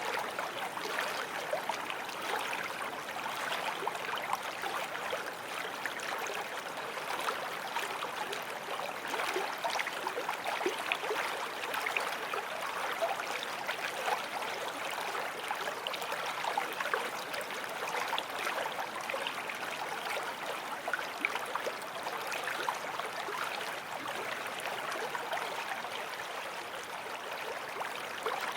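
Small forest stream flowing over stones, a steady rushing babble with small splashes and gurgles.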